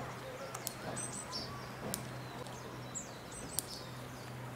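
Outdoor ambience with small birds chirping briefly a few times over a steady low hum, and a few faint sharp clicks.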